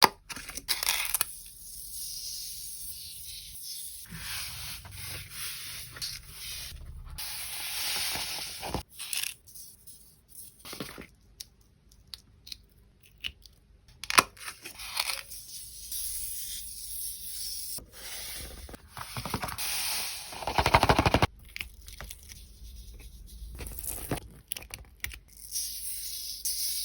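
Sand hissing and scraping as it is poured and worked across a board, in bursts of a few seconds, with a few sharp taps.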